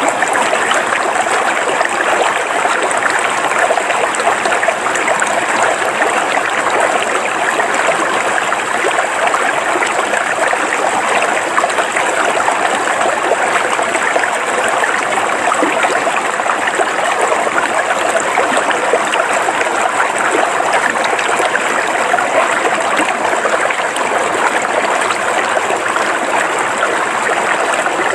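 River water flowing steadily over rocks, a continuous rushing and splashing with no breaks.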